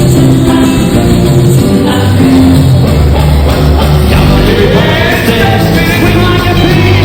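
Live band music with an upbeat rock-style beat, with some singing; sliding pitch lines come in about halfway through.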